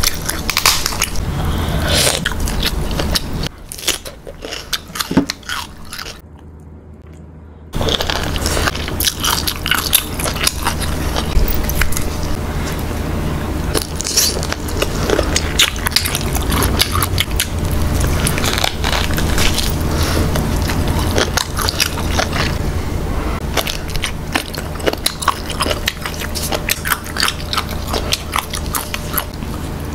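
Close-miked eating of boiled Đông Tảo chicken: wet biting, chewing and crackling crunches, irregular and dense, with a short lull about six seconds in.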